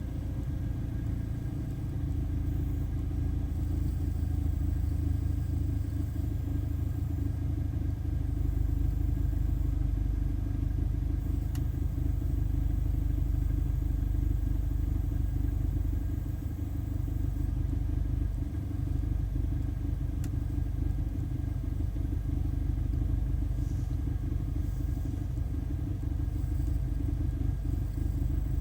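BMW E46 318i's N46B20 2.0-litre four-cylinder engine running steadily at idle, still cool from a cold start. The owner puts its running down to a faulty mass airflow (MAF) sensor.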